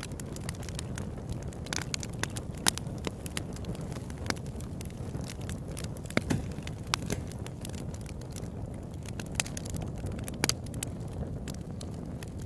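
Campfire burning, wood crackling and popping irregularly over a steady low rumble of the flames.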